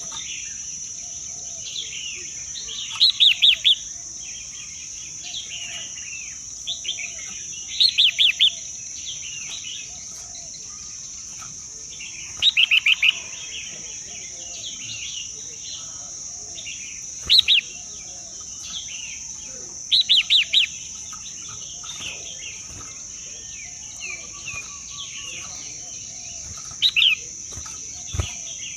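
A bird giving short bursts of three to five rapid chirps, repeated every few seconds, over a steady high-pitched insect drone.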